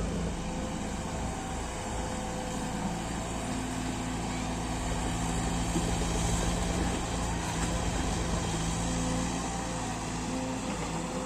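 Heavy diesel engine of working machinery running steadily, its hum growing a little louder about halfway through.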